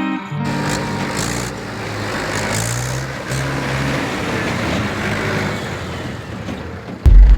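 Mahindra tractor's diesel engine running steadily, its low drone shifting in pitch a few times.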